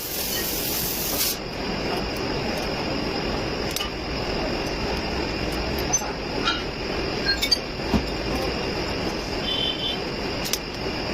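Volvo D13 diesel truck engine running steadily, the engine being diagnosed for a misfire. A loud hiss of air in the first second or so, and a few light clicks later on.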